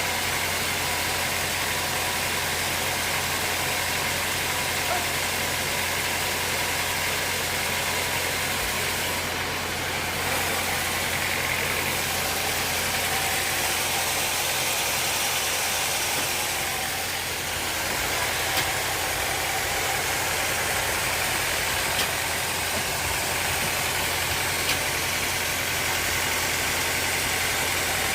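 Sawmill machinery running steadily: a constant low motor hum under an even hiss, with a few faint clicks in the second half.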